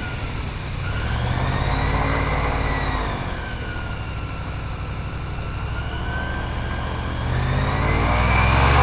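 Airboat engine and propeller running, its note easing off through the middle and then rising and getting louder near the end as the throttle opens again.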